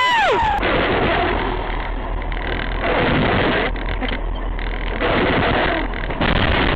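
Steady vehicle road and engine noise from dashcam-style recordings, changing abruptly several times as clips cut. A short pitched tone falls away at the very start.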